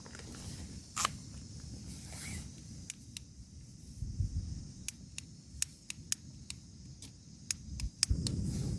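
Rain falling on a tent, heard from inside: scattered sharp ticks of drops hitting the fabric over a low steady rumble of wind and rain, which swells louder near the end.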